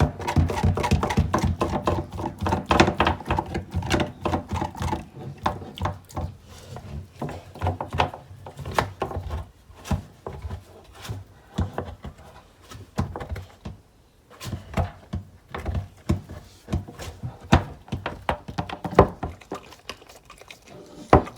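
American Bully dog crunching and gnawing on a raw deer bone: a run of sharp, irregular cracks and crunches. They are densest in the first few seconds, then sparser with short gaps.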